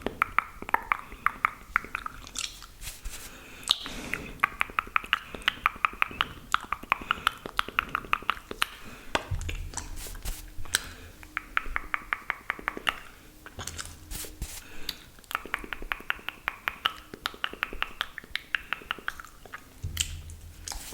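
Close-miked wet mouth sounds of ASMR spit painting: fast, crackly mouth clicks and smacks in long runs of many clicks a second, with short breaks between runs.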